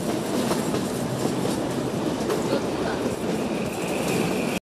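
Narrow-gauge Kalka–Shimla train running along the track, heard from the coach window: a steady rumble with light wheel clatter. A faint high squeal joins near the end.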